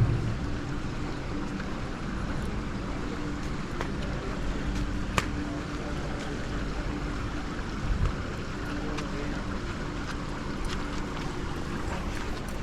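Steady rushing background noise with a faint low hum, scattered faint clicks and one sharper click about five seconds in.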